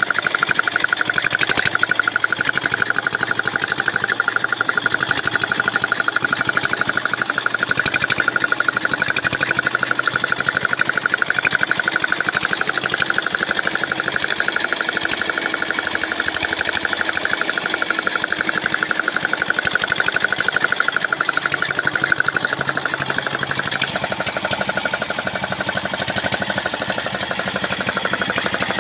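Small 6 hp diesel engine running steadily with a fast, even knocking beat.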